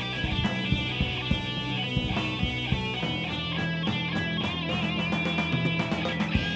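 Rock band playing live without vocals: electric guitars over bass and drums, with a guitar note wavering in vibrato around the middle.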